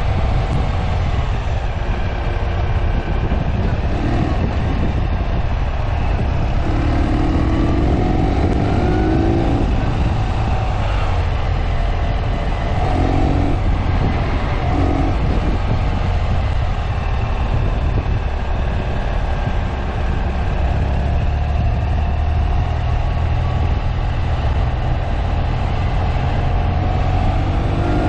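Ural sidecar motorcycle's air-cooled flat-twin engine running under way, with wind and road noise. Its pitch rises and falls a few times as the throttle is opened and closed through the bends.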